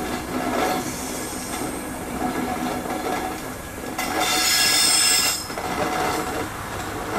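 Train running on rails, with a loud high-pitched squeal from about four to five and a half seconds in.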